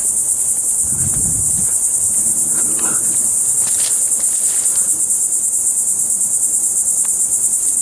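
A loud, steady, high-pitched insect chorus with a fast pulsing texture, with faint low rustling from handling or steps about a second in and again about three seconds in.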